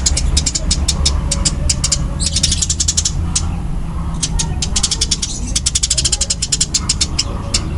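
Eurasian tree sparrows giving fast, dense, loud chirping calls, the agitated 'fighting' chatter, thickening into a continuous burst about two seconds in and again about six seconds in. A steady low hum runs underneath.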